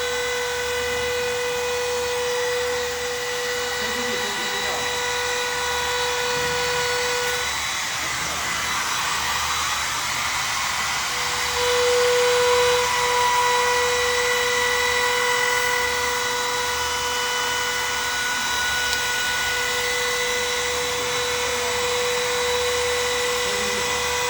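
Handheld trim router running with a steady high whine, trimming veneer edges; near the middle the clean whine gives way for a few seconds to a rougher cutting noise, then returns.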